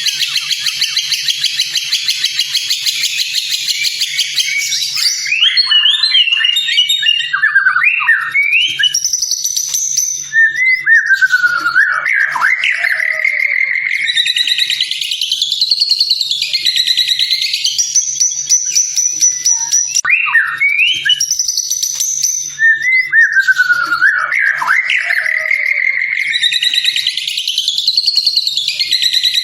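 White-rumped shama (murai batu) singing: a rapid buzzy trill first, then loud fluty whistled phrases that slide up and down in pitch, with the same sequence of phrases coming round again about 12 seconds later.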